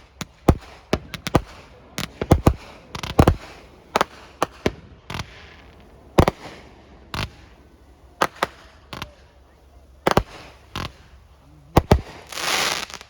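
Fireworks display: more than twenty sharp bangs from bursting fireworks, irregularly spaced and at times several in quick succession, with a hissing burst lasting about a second near the end.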